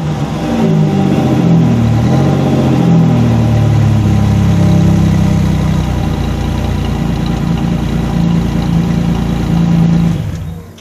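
Engine of a Pontiac Firebird Trans Am running through a Walker exhaust system at idle. The pitch wavers for the first few seconds and then holds steady, before the sound fades out near the end.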